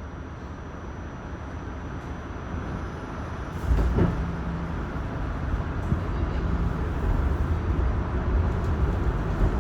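R46 subway train running through the tunnel, its low rumble building steadily as it picks up speed. It grows louder in a step about a third of the way in, with a sharp click at that moment.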